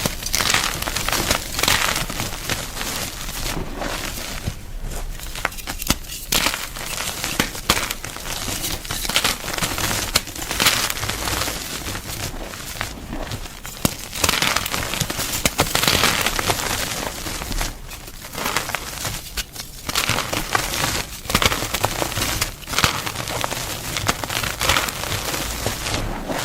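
Gym chalk being crunched, a dense run of dry crackling and crumbling with irregular louder crunches.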